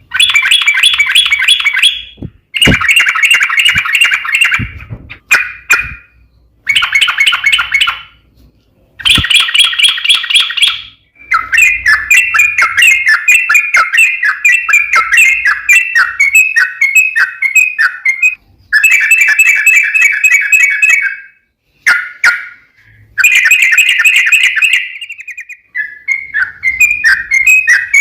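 Yellow-vented bulbul (trucuk) song: loud phrases of fast chattering, warbling notes, each a few seconds long, repeated with short gaps between them. A few sharp clicks fall between the phrases.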